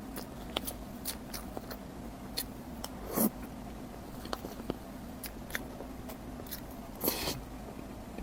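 Close-miked eating: biting and chewing with wet mouth clicks, the louder bites coming about three seconds in and again near the end, over a steady low hum.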